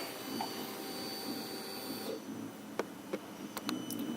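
Electric fuel pump of a 2008 Yamaha YZF-R6 whirring as it primes when the ignition is switched on; it runs about two seconds and stops abruptly. A few light clicks follow.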